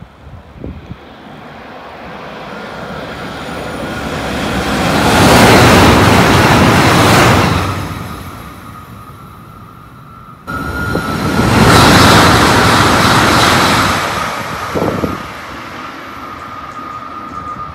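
Trains passing at speed: a rushing rail noise swells over a few seconds to a loud peak and fades, then after an abrupt cut a second pass-by swells up and fades, with a steady high whine over the noise.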